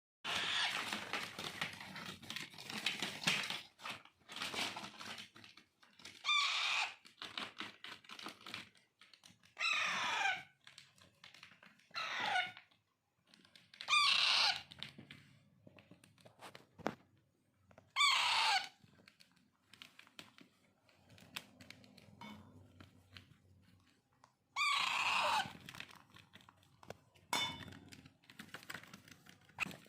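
Alexandrine parakeet chicks giving harsh begging calls during hand-feeding: a raspy run of calls at first, then about eight loud separate calls, each sliding down in pitch, with irregular gaps between them.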